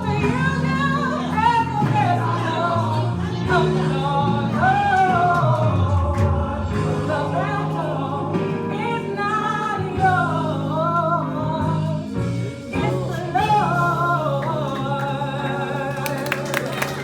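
A singer performing a gospel song over a steady instrumental accompaniment. Applause begins near the end.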